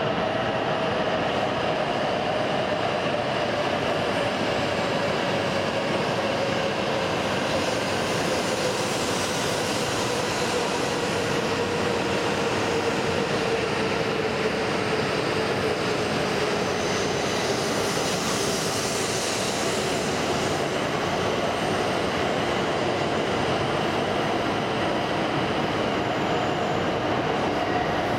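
E7 series Shinkansen train moving alongside the platform: a steady rush of wheels and running gear, with a humming tone that slides slowly down in pitch over the first half and another that rises again near the end.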